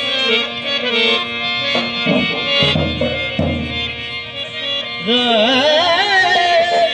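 Rajasthani folk music: a harmonium holding steady chords over a few deep hand-drum strokes. About five seconds in, a singer enters on a long wavering note.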